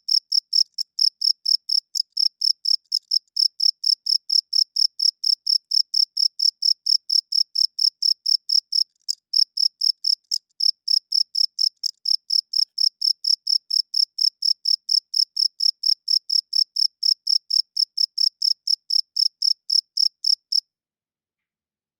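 Cricket chirping: a steady, even run of short high-pitched chirps, about three a second, that stops abruptly near the end.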